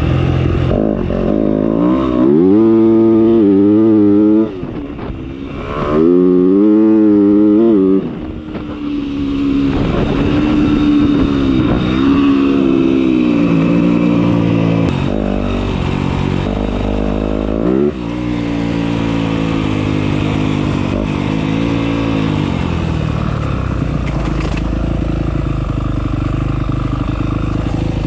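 Motocross dirt bike engine under way, revved hard twice in the first eight seconds with the pitch climbing and holding high, then running on with the note rising and falling through throttle and gear changes and settling lower near the end.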